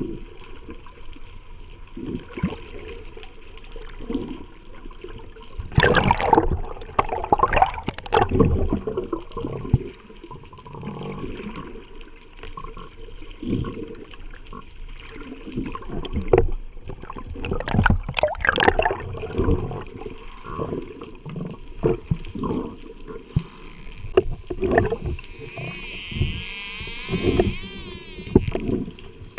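Sea water sloshing and bubbling around a swimmer's camera in the water, in irregular loud surges, with a higher hiss near the end.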